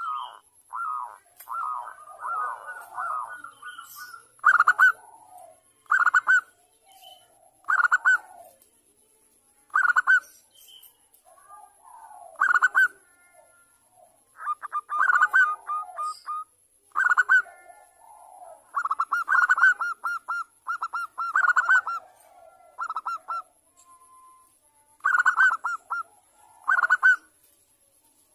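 Zebra dove (perkutut) calling: short, rapid staccato cooing phrases, repeated every second or two.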